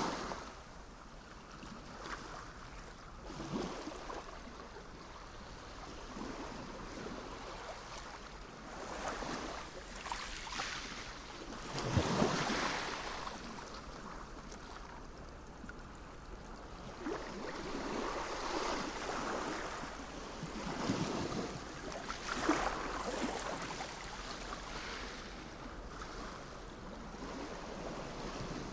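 Sea waves breaking and washing ashore, surging and falling back every few seconds, with the strongest surge about halfway through.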